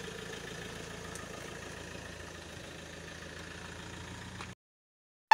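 Mahindra XUV500 SUV's engine idling steadily. The sound cuts off suddenly near the end.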